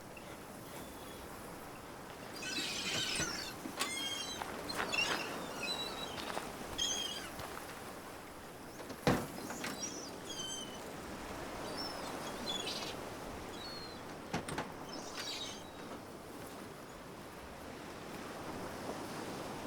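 Birds chirping in short, high calls over a steady outdoor background hiss, with a sharp knock about nine seconds in and a smaller click near fourteen and a half seconds.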